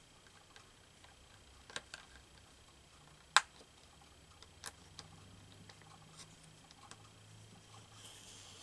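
Faint handling of cut paper pieces on a work surface: a few scattered light clicks and taps, the sharpest about three seconds in.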